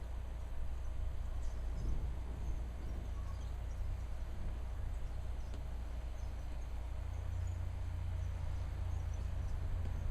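Outdoor storm ambience: a steady low rumble that grows a little stronger about seven seconds in, with faint, scattered high chirps.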